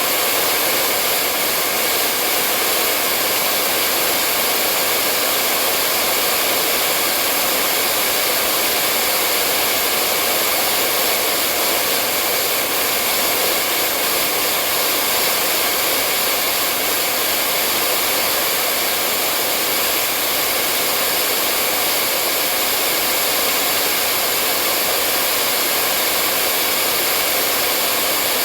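Hair dryer running continuously: a steady, even blowing whoosh with a faint motor hum, unchanging in pitch and level.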